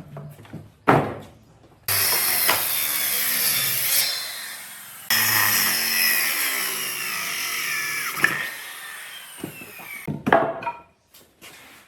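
Handheld power tool working wood in two short runs, each starting abruptly; the second winds down with a falling whine. A few sharp knocks follow near the end.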